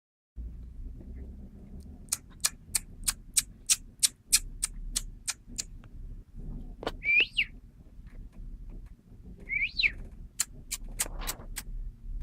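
A quick run of sharp clicks, about three a second, then two short high-pitched mews that rise and fall, from a kitten, followed by a few more clicks near the end.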